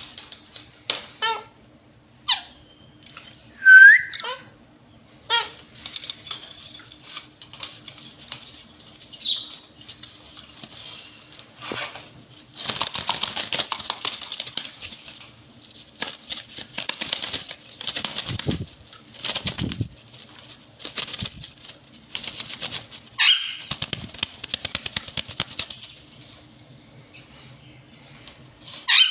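Parrots in a cage: a few short, sharp squawks and one rising whistle, then long bouts of wings flapping and fluttering against the cage through the middle, ending with another sharp squawk.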